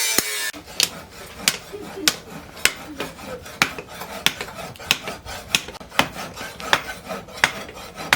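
Hammer striking hot steel on an anvil at an even pace, about one sharp metallic blow every 0.6 seconds, as a knife blade is forged. A loud rushing noise cuts off about half a second in.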